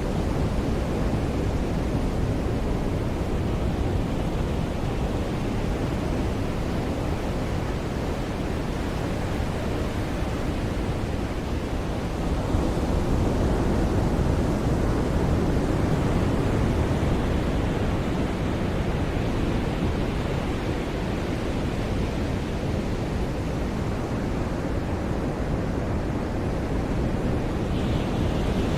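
Ocean surf washing onto a beach, a steady rush of breaking waves that swells louder about halfway through.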